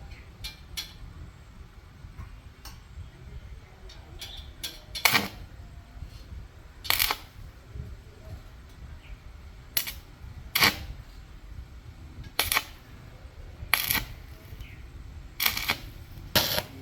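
A series of sharp knocks or clicks, about eight, spaced irregularly a second or two apart over a low steady background rumble.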